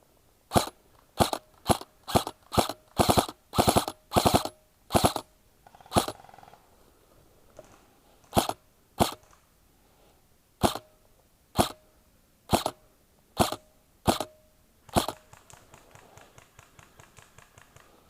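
Specna Arms SA-B05 airsoft electric rifle firing: about eighteen sharp shots, fired quickly and some as quick doubles for the first five seconds, then spaced about a second apart. In the last two seconds there is a faint, fast ticking.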